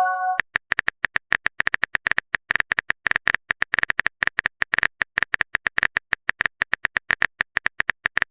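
Rapid, irregular typing clicks of a phone-keyboard typing sound effect, as a text message is typed out. A chime of a few held tones fades out in the first half second.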